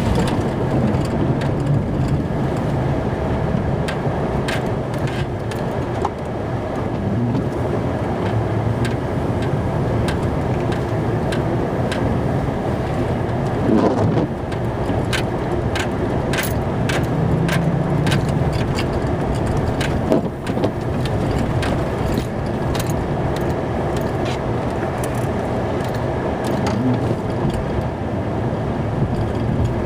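Plow truck running steadily while plowing snow, heard from inside the cab, with scattered clicks and rattles.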